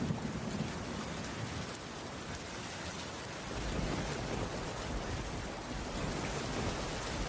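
Steady rain falling on a wooden cabin roof, an even hiss, with a low rumble underneath that swells about halfway through.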